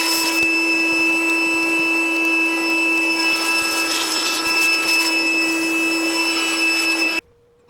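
Hair dryer blowing dust off a typewriter, a steady motor whine with rushing air, switched off suddenly near the end.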